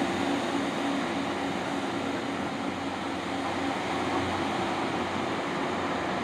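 Diesel passenger train pulling away from the station, a steady low drone that fades over the first few seconds under a constant rushing hiss.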